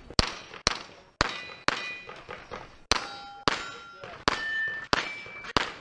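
SIG MPX carbine fired in semi-auto, about nine shots at roughly two a second with a short pause after the fourth. Each hit sets a steel target plate ringing with a clear metallic tone.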